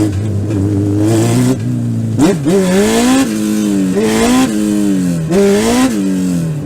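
Legend race car's engine running at a steady note, then revving up sharply about two seconds in and rising and falling in pitch again and again as the throttle is worked.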